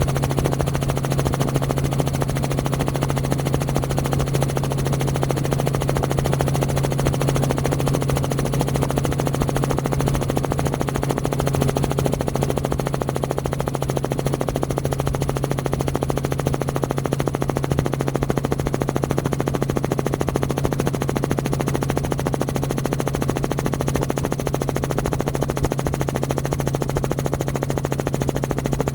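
Semi truck's diesel engine running steadily: a fast, even rattle of exhaust pulses over a steady low hum, with no change in pitch or level.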